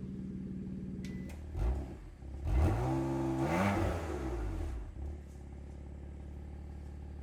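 BMW M4 GTS's twin-turbo straight-six idling, blipped briefly about a second and a half in, then revved higher, held for about a second and let fall back to a steady idle.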